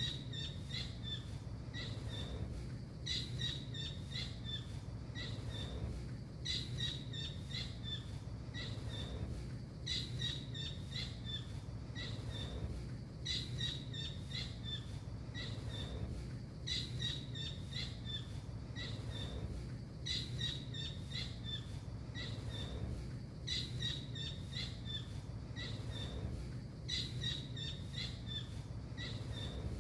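Blue kingfisher (tengkek biru) calling: bouts of rapid, sharp, high-pitched notes, each about two seconds long, repeating about every three and a half seconds over a steady low rumble.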